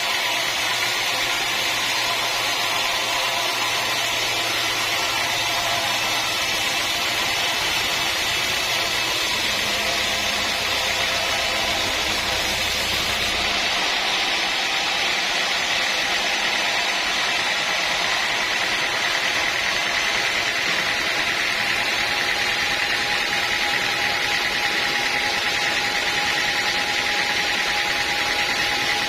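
Sawmill woodworking machinery running steadily: a continuous mechanical whine with a low hum underneath that drops out about halfway through.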